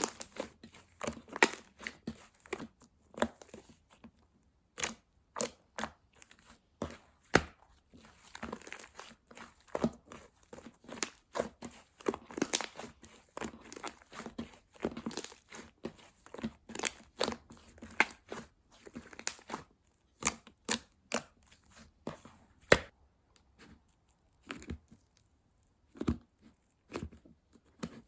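Hands playing with slime: a run of irregular sticky pops, clicks and crackles as it is pressed, stretched and folded, with short pauses between.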